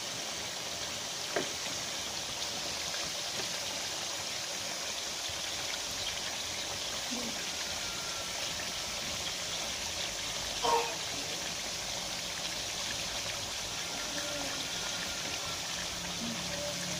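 Chicken pieces sizzling steadily in ghee in a steel karahi, a soft even hiss. Twice a light knock, the louder one about eleven seconds in, as tomato halves are set into the pan.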